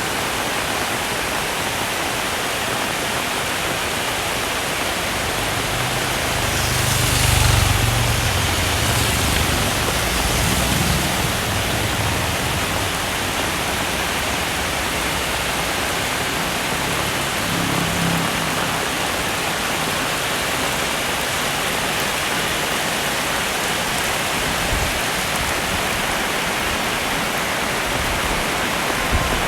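Heavy rain falling steadily, a dense even hiss. A low rumble swells and fades about a quarter of the way in.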